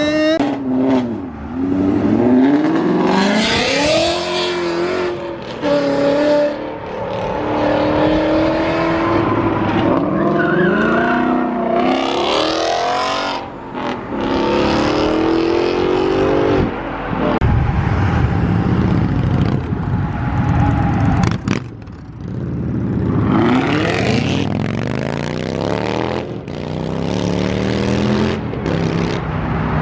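Performance car engines revving and accelerating away one after another, each rising in pitch and dropping back several times over the stretch.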